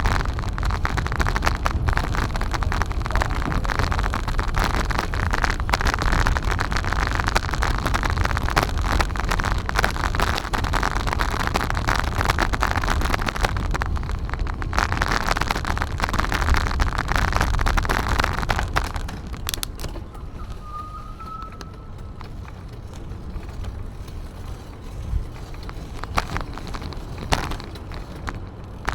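Wind and road noise on a camera carried on a moving bicycle: a steady rushing rumble that drops to a quieter background about two-thirds of the way through, with a few clicks and one brief high chirp after the drop.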